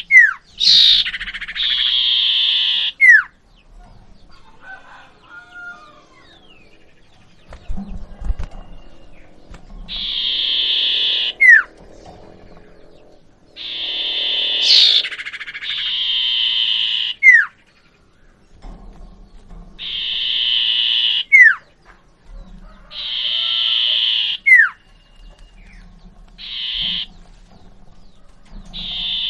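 Common iora (cipoh) singing: a long, held, buzzy note that ends in a sharp falling whistle, repeated several times with pauses of a few seconds between phrases.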